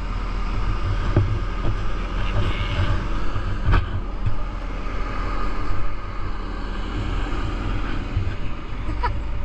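Heavy gravel truck's diesel engine running steadily with a deep rumble, with one sharp knock about four seconds in.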